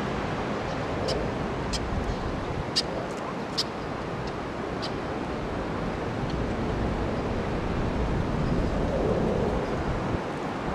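Wind blowing over the microphone as a steady rushing noise, with a few short, high ticks or chirps scattered through the first half.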